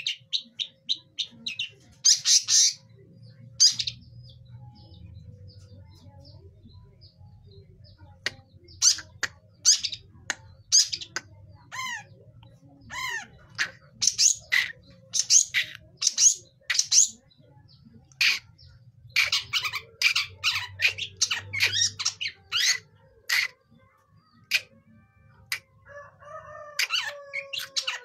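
Young long-tailed shrike (cendet) practising its calls: short, sharp, high chirps and squawks in irregular clusters, some quick runs of notes, with pauses between. A faint low hum runs underneath for most of the time.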